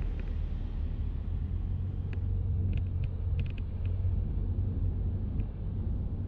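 Steady low rumble of a car being driven, heard from inside the cabin, with a few faint clicks in the middle.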